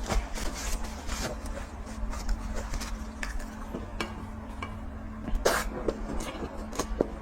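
Close-miked eating sounds: irregular, wet chewing clicks and smacks, with a few clinks of cutlery against a dish. The loudest click comes about five and a half seconds in.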